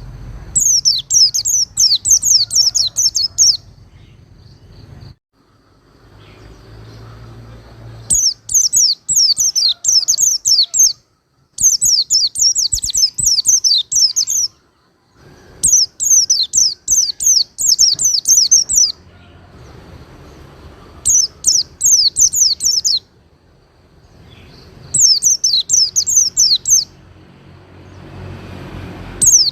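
White-eye (pleci) singing: fast strings of high, quickly falling notes in loud bursts of two to three seconds, repeated about six times with short pauses between.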